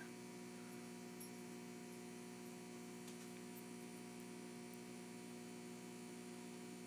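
Steady low electrical hum made of several even tones, with faint hiss above it.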